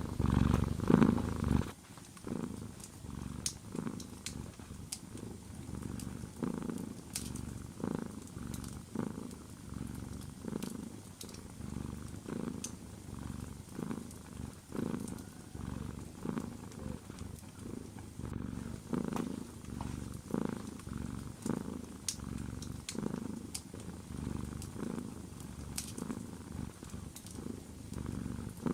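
Cat purring close up, in slow rhythmic pulses of about one a second, louder for the first two seconds. Faint crackles from a fireplace fire are heard over it.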